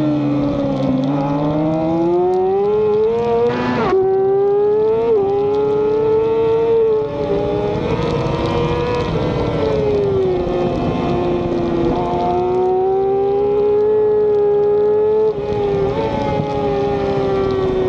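Onboard sound of a racing motorcycle engine under hard use, its pitch falling and rising through the corners, with a quick break in the note about four seconds in and again later as it shifts gear.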